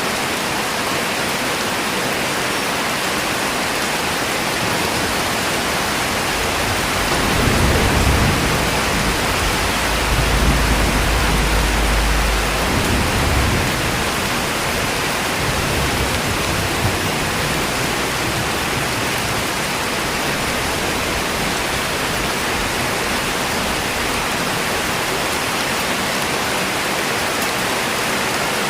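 Steady, heavy rain hissing evenly throughout, with a deep low rumble building about seven seconds in and fading out by about fourteen seconds.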